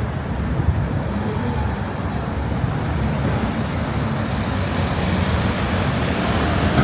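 Steady low rumble of outdoor city background noise, growing slightly louder near the end.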